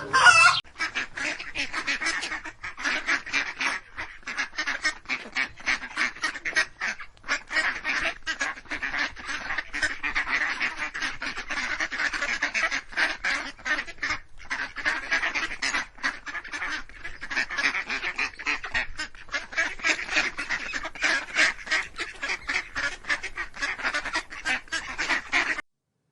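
A flock of geese or ducks calling: many short honks and quacks overlapping in a dense, continuous chorus that cuts off suddenly near the end.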